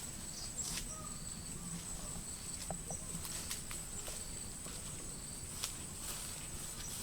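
Insects chirring steadily on one high pitch, with a few faint scattered clicks.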